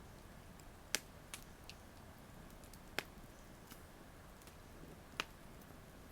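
Campfire wood crackling: three sharp pops, about a second in, at three seconds and just past five seconds, with a few fainter ticks between, over a faint steady hiss.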